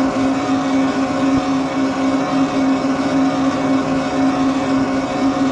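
Electric bike motor running at a steady speed, a constant whine with overtones over the hiss of wind and tyres.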